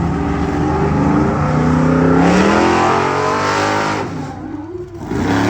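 A vehicle engine revving under acceleration, its pitch climbing, easing off about four seconds in, then rising again near the end.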